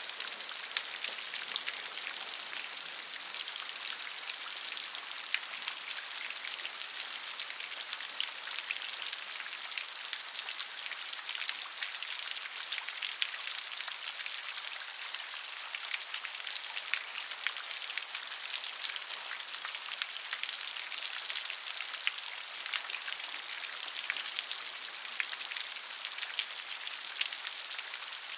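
Steady rain falling, an even hiss dotted with many small close drop ticks.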